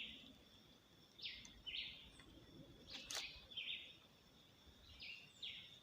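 A bird calling faintly in short two-note chirps, three times, about every two seconds, over a thin steady high hum of insects.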